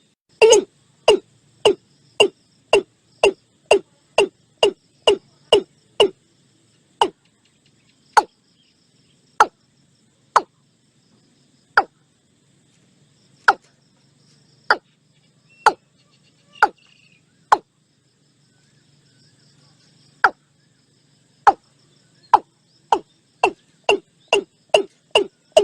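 Watercock calling: a long series of short notes, each falling in pitch. They come about two a second at first, slow to single notes a second or more apart in the middle, and speed up again to about two a second near the end.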